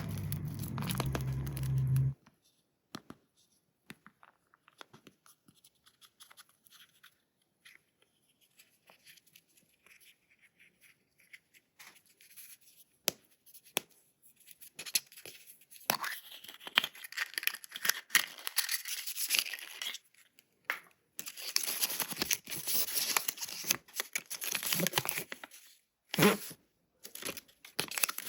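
Toy packaging being opened by hand: scattered small clicks and rustles, then two long stretches of tearing and crinkling, the first about halfway through and the second near the end. A low steady hum plays for the first two seconds and then stops.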